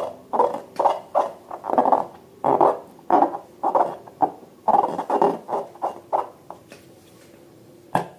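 Slime being squeezed and kneaded by hand: a quick, irregular run of wet squelches that thins out and stops about six and a half seconds in, followed by a single sharp click near the end.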